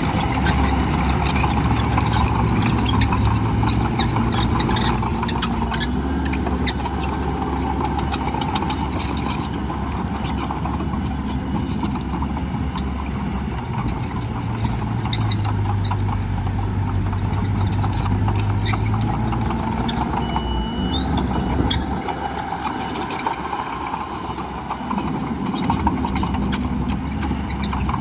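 Heavy diesel earthmoving machinery running. The engine note rises and falls several times as the machines work, with scattered sharp clanks.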